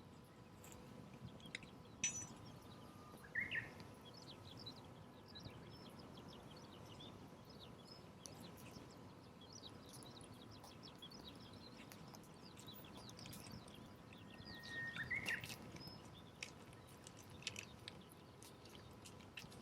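A small campfire of damp firewood burning with faint crackling, many small irregular pops and ticks. A couple of short bird chirps come through, once about three seconds in and again near fifteen seconds.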